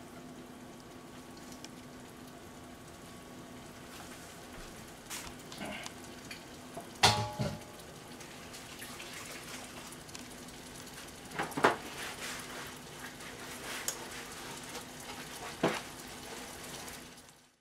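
Butter, bacon bits and minced garlic sizzling gently in a stainless steel frying pan, with a few louder pops and clicks.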